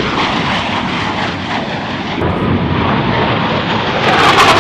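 Aircraft engine noise from an airplane in flight, a steady roar that jumps suddenly louder about four seconds in.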